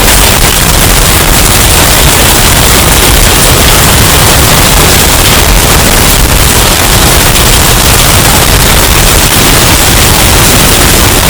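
Hurricane wind sound effect, bass boosted and overdriven into a steady, very loud, distorted wash of noise with no breaks.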